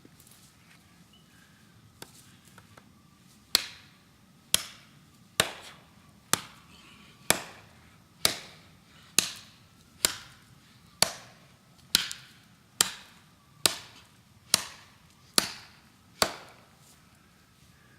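A steel golok blade chopping into a tree trunk, about fifteen strokes at a steady pace of roughly one a second, each a sharp crack with a brief ring. The chopping starts a few seconds in and stops shortly before the end.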